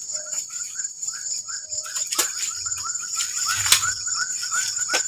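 Evening forest chorus of insects: a steady high buzz with a short chirp repeated about three times a second. A few sharp clicks or knocks sound over it, the loudest just before the end.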